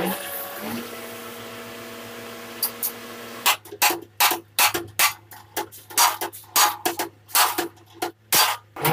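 Steel panel being beaten with a hammer: loud, sharp metal blows about three a second, starting about three and a half seconds in. Before the blows there is a steady hum.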